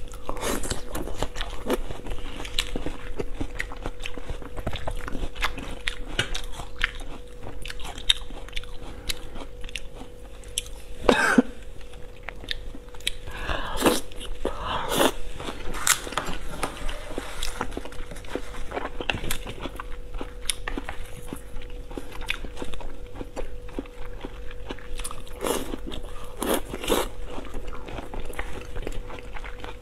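Close-miked eating: wet chewing of raw marinated beef and crisp crunching of shredded Asian pear. Louder bites come a few times, about 11, 14 and 15 seconds in and twice near the end. A faint steady hum runs underneath.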